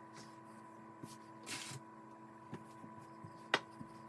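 Rolling pin working pastry dough on a kitchen counter: a few light knocks and clicks, the sharpest about three and a half seconds in, and a brief hiss about a second and a half in, over a faint steady hum.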